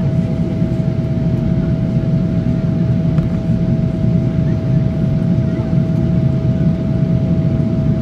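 Steady cabin noise inside a Boeing 777-300ER in flight: a dense low rumble of airflow and GE90 engine noise, with a steady mid-pitched hum on top.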